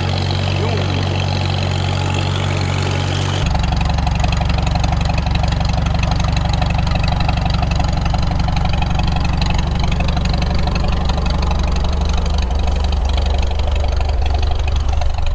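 Farmall H tractor's four-cylinder engine running steadily. About three seconds in the sound changes abruptly to a louder, rougher running note that then holds.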